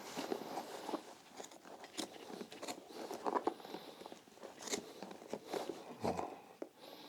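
Irregular crunching and clicking as the nailed leather sole of a Loake 1880 derby shoe is worked away from the shoe, the nails still holding it.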